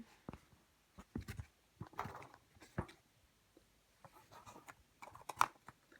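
Scattered light clicks and rustling from handling plastic OO gauge model railway track pieces, sectional track being placed and fitted together.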